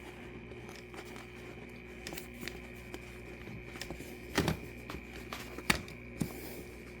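A KitchenAid dishwasher part being slid and pushed back into place by hand: light scrapes and small knocks, the loudest about four and a half seconds in and again near six seconds, over a faint steady hum.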